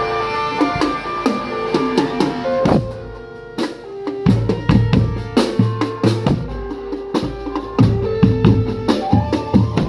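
Drumband music: drums, with bass drum and snare strokes, played under a held melody. The level drops to a quieter passage about three seconds in, then heavy bass drum hits come back in strongly and keep going.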